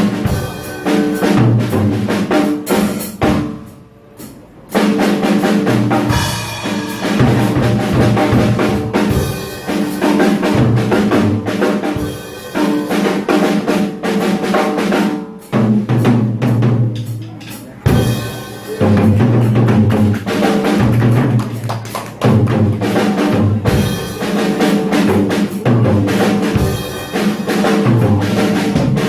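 Small jazz combo of trumpet, tenor saxophone, trombone, piano, bass and drum kit playing, with the drum kit prominent. The sound drops briefly about four seconds in.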